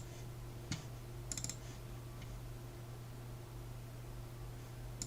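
Clicking at a computer: a single click under a second in, then a quick double click, over a steady low electrical hum.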